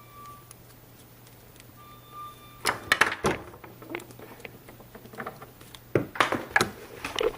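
Light clicks and clacks of a modded spinning pen knocking against fingers as it is spun and caught, coming in irregular clusters from about a third of the way in.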